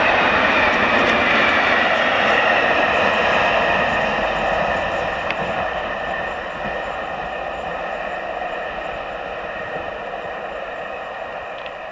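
An EN57 electric multiple unit passes on the rails: steady rolling noise with a high-pitched whine over it, fading gradually as the train moves away.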